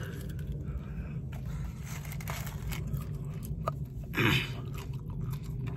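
Biting into and chewing crispy fried chicken, with faint scattered crunches over a steady low hum of a car cabin.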